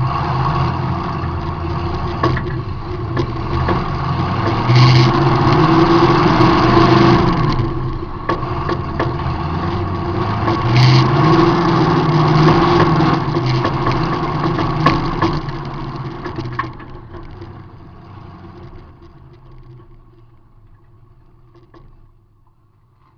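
Demolition derby car's engine heard from inside the car, running hard and revving up and back down twice, with scattered sharp knocks. The sound fades away over the last several seconds.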